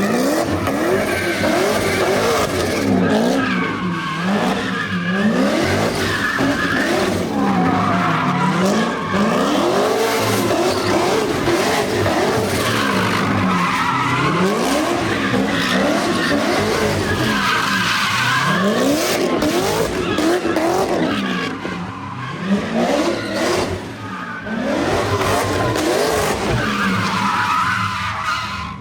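A very loud car engine revving up and falling back over and over, roughly every two to three seconds, with tyres squealing as the car is spun round in circles.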